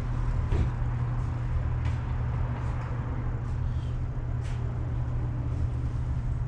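Steady low rumble of background machinery noise, with a few faint light clicks of small parts being handled.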